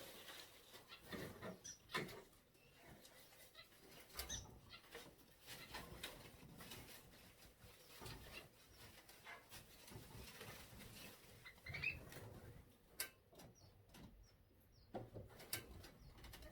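Faint aviary birds giving occasional short high chirps, one rising near the end, amid scattered light knocks and clicks.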